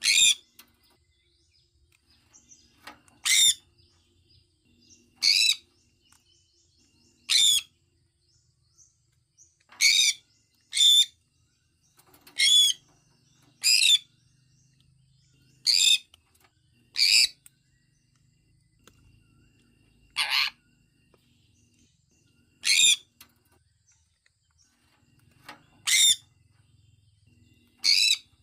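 A sun conure calling: short, loud, high-pitched chirps, about fourteen of them, coming every couple of seconds at an uneven pace, sometimes two in quick succession.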